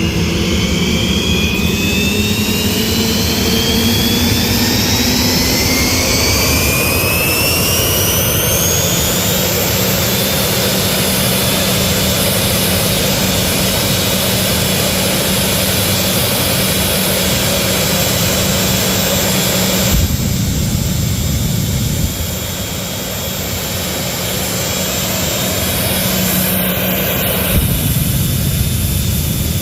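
Jet dragster's turbine engine running loud: its high whine rises in pitch over the first several seconds as the engine spools up, then holds steady over a heavy rushing noise. The sound shifts abruptly twice in the second half.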